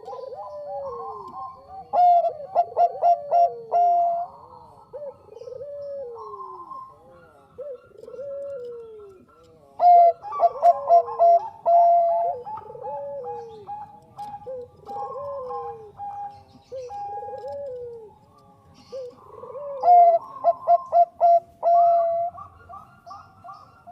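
Bangkok-strain zebra doves (perkutut) cooing: a soft falling coo repeated about once a second, broken three times by a loud rapid run of short staccato coos.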